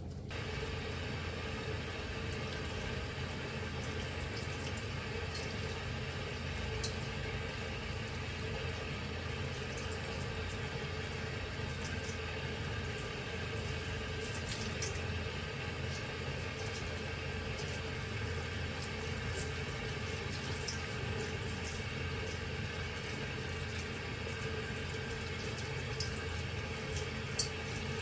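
Tap water running steadily into a sink, turned on suddenly, with a few faint light clinks.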